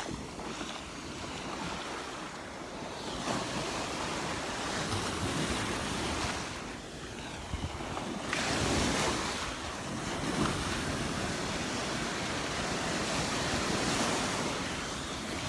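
Surf breaking and washing up on a sandy beach, swelling and easing, with wind buffeting the microphone.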